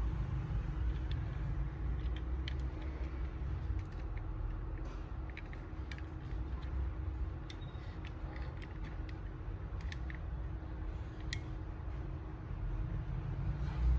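Scattered light clicks and creaks of a small 1/32-scale model car being handled, over a steady low rumble and hum.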